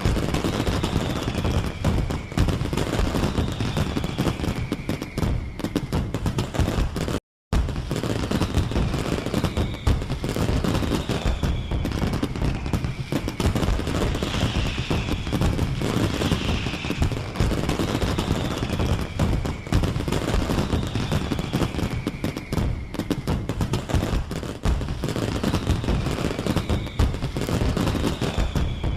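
Dense, continuous crackling and popping, rapid and unbroken, with faint falling whistles every couple of seconds. The sound cuts out completely for a moment about seven seconds in.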